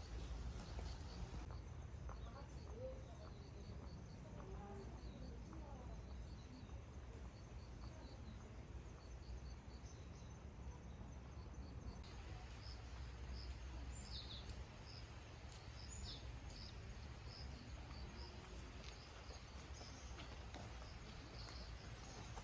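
Outdoor ambience: a steady low rumble with faint, repeated high bird chirps and insect calls. The chirps grow busier after a cut partway through, with a few short falling calls.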